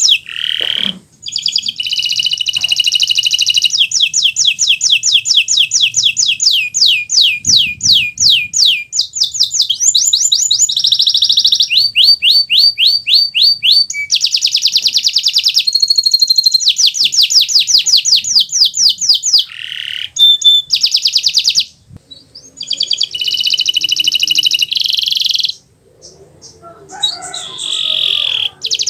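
Kenari Nusantara canary singing at full voice: rapid high trills of quickly repeated notes, changing from one trill type to the next every second or two, with a few brief breaks.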